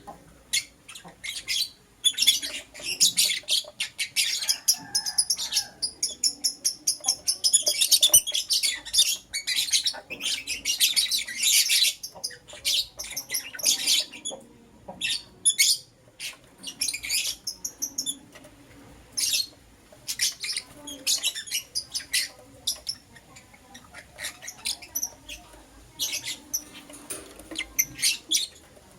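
Lovebirds chirping in rapid runs of short, high-pitched chirps and squeaks, densest in the first half and more scattered later.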